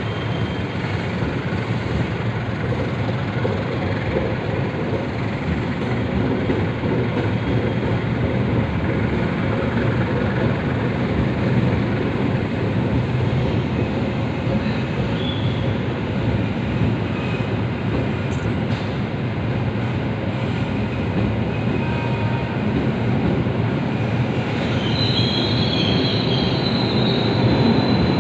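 Passenger train's cars rolling past a station platform: a steady rumble of wheels on rails, with a brief high squeal of the wheels near the end.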